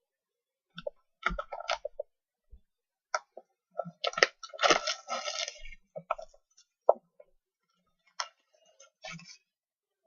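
Hands opening and handling a sealed trading card box: scattered clicks and taps with crinkly rustling of wrapping and cardboard, busiest about four to six seconds in.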